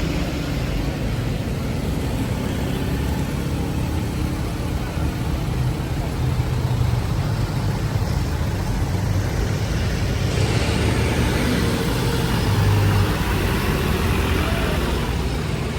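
Road traffic: vehicle engines running in a steady low rumble, growing louder and brighter about ten seconds in as a vehicle comes closer.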